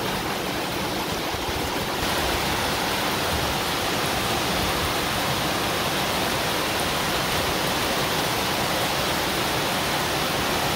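Heavy rain pouring onto a water-covered concrete driveway and garden foliage, a steady hiss that gets a little louder about two seconds in.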